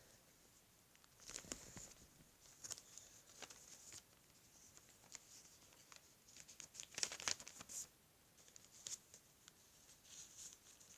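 Faint paper rustling and crinkling as folded paper airplanes are handled, in scattered short bursts with a busier stretch about seven seconds in.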